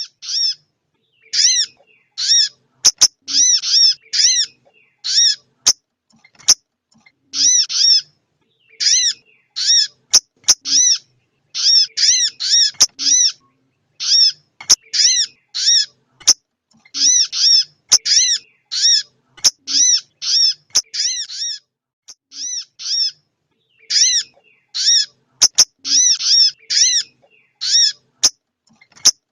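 Female sogon bird calling: repeated bursts of short, quick, arched chirping notes about a second long, separated by brief pauses. Sharp clicks are scattered among the calls.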